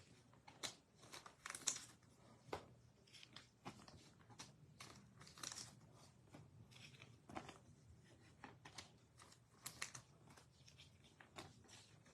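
Faint handling of trading cards and pack wrappers: scattered short crinkles, rustles and light taps.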